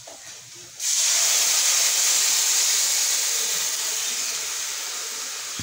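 Yogurt and gram-flour (besan) kadhi batter poured into hot oil with fried onions and spices in a steel kadai, sizzling as it hits. The sizzle starts suddenly about a second in and slowly dies down as the liquid cools the oil.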